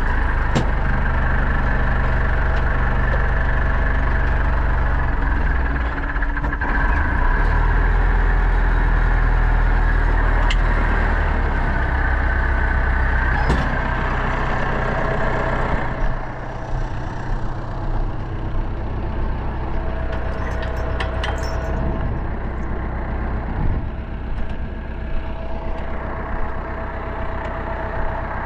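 Pronar 1025A tractor's diesel engine running steadily under load while ploughing. About sixteen seconds in, its note eases and gets a little quieter.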